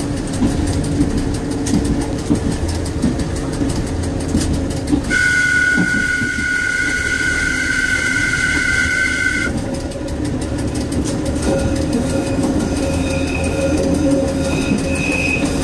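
Diesel train running along the track, heard from inside the driver's cab, with steady engine and rail noise. About five seconds in, the train's two-tone horn sounds one steady blast lasting about four and a half seconds. A fainter high tone comes and goes near the end.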